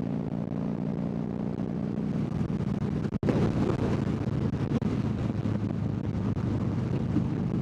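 Harley-Davidson V-twin engine running steadily at road speed under wind noise on the microphone, with a sharp momentary drop in the sound about three seconds in.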